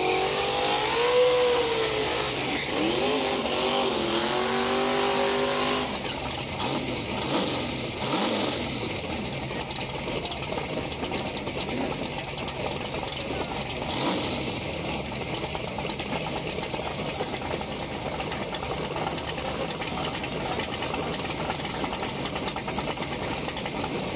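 Car engine accelerating hard, its pitch climbing in several rising sweeps. After about six seconds it gives way to a steady rushing noise.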